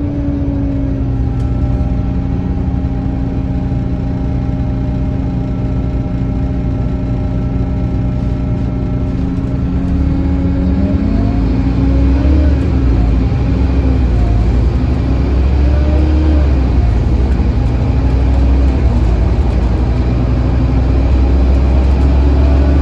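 Scania N230UD OmniCity double-decker bus engine running as the bus drives, a steady note that dips and climbs again about halfway through, then a slightly louder low rumble as it pulls away.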